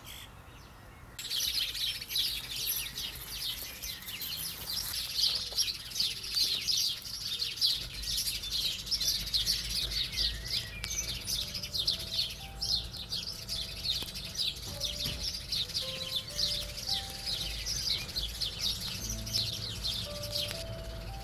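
Dense birdsong: many small birds chirping in quick, overlapping calls, starting abruptly about a second in. A few faint held notes come and go in the second half.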